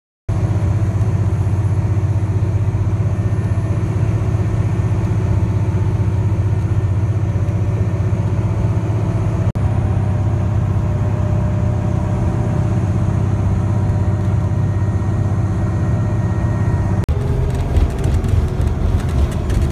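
Loud, steady engine rumble with a few steady tones above it, cutting in abruptly. The sound briefly drops out about halfway through and turns rougher, with crackling, near the end.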